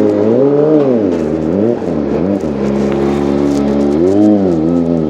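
Kawasaki ZX-25R's inline-four engine running at a steady low speed and revved in short throttle blips: a big one about half a second in, two smaller ones around two seconds in, and another about four seconds in, each falling back to the same steady note.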